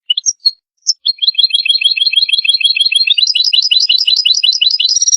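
European goldfinch singing: a few separate high chirps, then from about a second in a fast, rapid run of repeated twittering notes that steps up in pitch about three seconds in.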